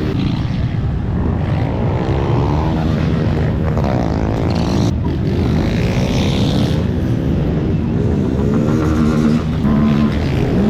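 Motorcycle engines running and revving, the pitch climbing and falling several times over a steady engine drone.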